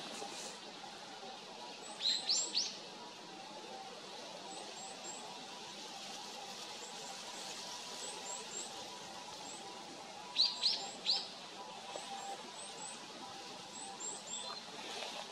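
Small birds calling: two bursts of three quick, loud rising whistled notes, about eight seconds apart, over scattered faint, very high thin chips.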